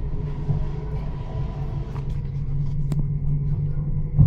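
A Copenhagen S-train heard from inside the carriage while running at speed: a steady low rumble with a few sharp clicks from the running gear.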